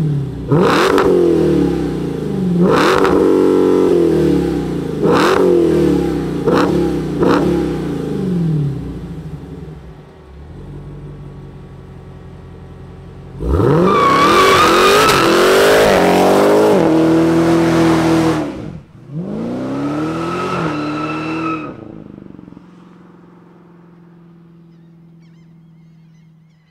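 Dodge Challenger SRT Super Stock's 6.2-litre supercharged Hemi V8 revved sharply several times, then settling to idle. About halfway through it holds high revs for some five seconds in a burnout, spinning the Nitto drag radials, then gives a shorter second burst before the sound fades away as the car pulls off.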